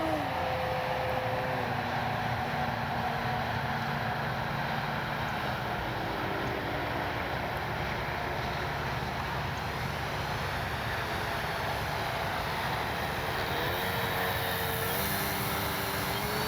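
Electric RC airplane in flight: the Spektrum Avian brushless outrunner motor and 13 x 6.5 propeller whine over a steady rushing noise. The pitch drops right at the start, holds steady, then rises again about three-quarters of the way through.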